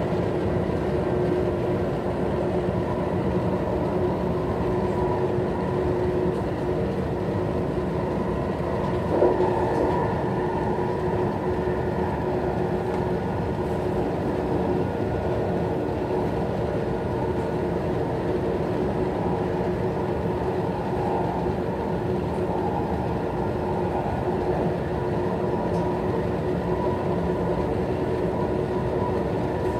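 MTR West Rail electric multiple-unit train running at speed, heard inside the carriage: a steady rumble of the wheels on the rails with a steady hum over it, and one brief knock about nine seconds in.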